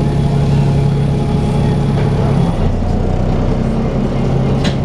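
Dennis Trident 2 double-decker bus running, with the steady vacuum-cleaner-like 'hoover' whine that the bus is known for. The hum shifts lower about halfway through. There is a short click near the end.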